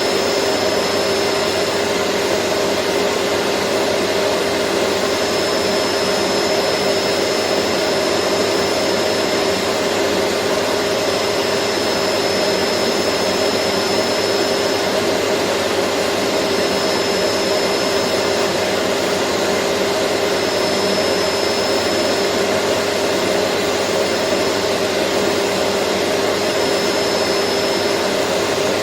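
Vacuum cleaner motor running steadily: an even rushing noise with a steady hum and a faint high whine that drops out and comes back several times.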